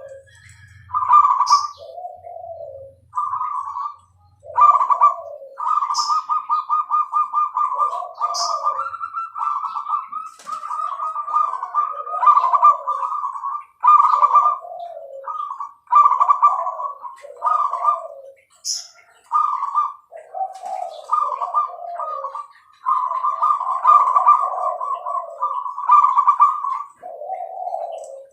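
Zebra dove (perkutut) cooing over and over: trilled coo phrases with lower notes between them, with brief high chirps now and then.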